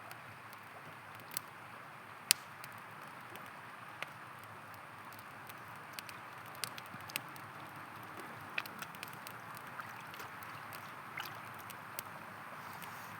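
A river's steady rush with a wood campfire crackling over it: scattered sharp pops at irregular times, the loudest about two seconds in.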